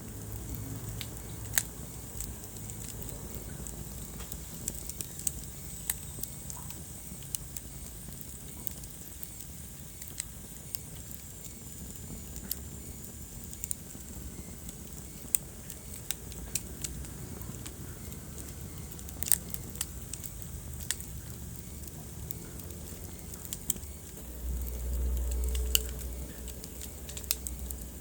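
Wood fire crackling in a fireplace: irregular sharp pops and snaps over a steady low rumble of burning logs. Near the end a louder low rumble swells for a second or two.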